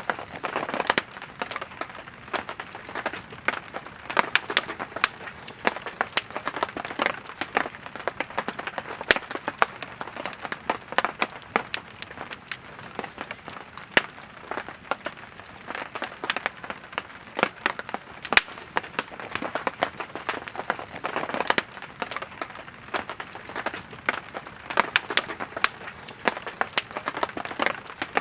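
Campfire of firewood logs burning, crackling with many irregular sharp pops over a soft steady hiss; a few pops stand out louder.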